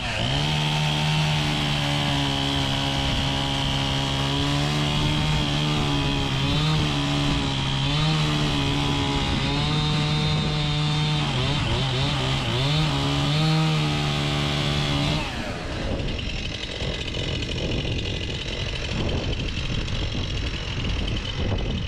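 Chainsaw running at high revs, its note dipping and wavering as the chain works through wood, then stopping about fifteen seconds in. A lower engine keeps idling underneath afterwards.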